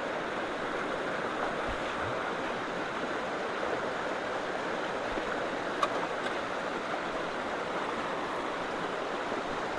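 Swollen creek water rushing steadily into road culverts, a constant roar of flowing water, with a single short click about six seconds in.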